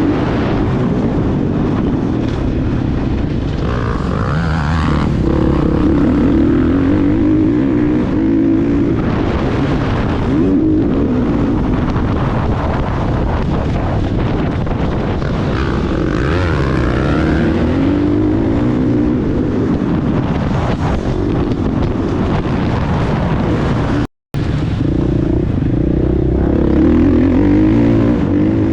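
Motocross bike engine running hard, its revs rising and falling repeatedly as it is ridden. The sound cuts out for a split second about four seconds before the end.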